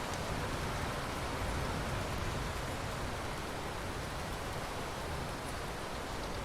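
Steady rain falling: an even, unbroken hiss with no thunder clap in it.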